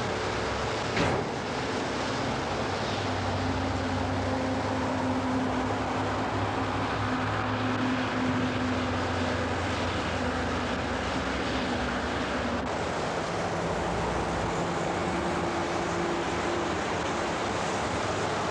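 Steady vehicle rumble and hiss, with a low engine or motor hum that shifts in pitch now and then and a single click about a second in.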